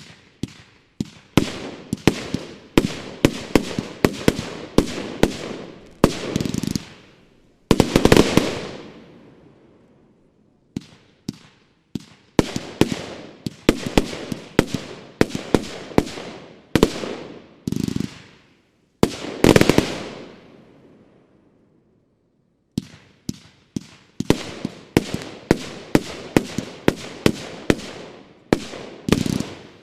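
Bonfireworks Golden Fan Shape firework cake, a 30 mm, 100-shot battery, firing: rapid sharp shots and bursts in volleys of several a second, broken by brief lulls, with a few louder, longer bursts among them.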